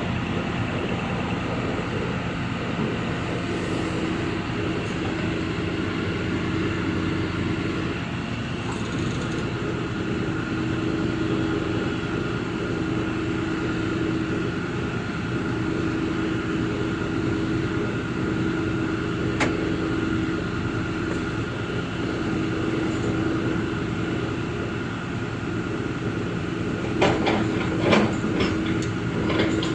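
Excavator's diesel engine and hydraulics running steadily under work, with a held tone coming in a few seconds in. A short burst of sharp metallic knocks sounds near the end.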